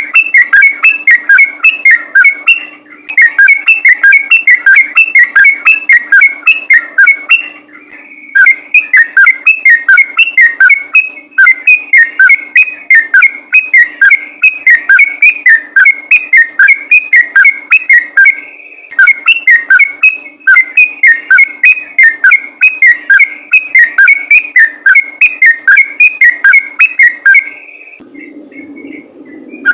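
Yellow-vented bulbul (trucukan) singing a fast, continuous rapid-fire song of whistled notes, several a second, in long runs with brief pauses. This is the 'ropel' song that bird keepers play to rouse other trucukan.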